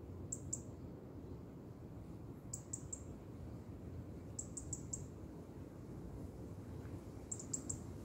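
Wind rustling through lakeside reeds as a steady low rush, with a small bird giving very high, short call notes in quick runs of two to four, four times.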